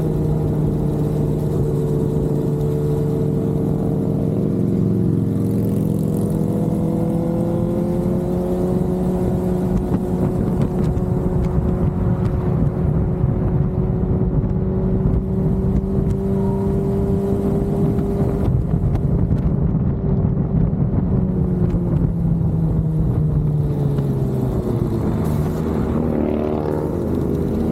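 Vehicle driving at steady speed: an engine hum over heavy road and wind rumble. The engine's pitch creeps up slightly, then drops near the end as it slows.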